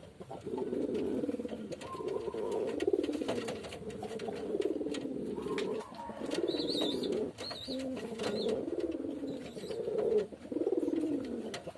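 Doves cooing almost without pause, the rolling low calls overlapping one another. Three short high chirps come in a little past the middle.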